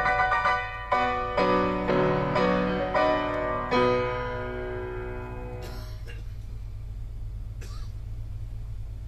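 Piano playing a slow phrase of single notes and chords, ending on a chord that fades out about six seconds in, leaving a low steady hum.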